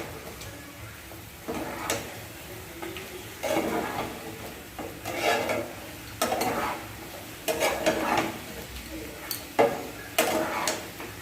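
A utensil stirring and scraping chicken with onion, ginger and garlic paste around a pan, in about nine irregular strokes, with a faint sizzle between them.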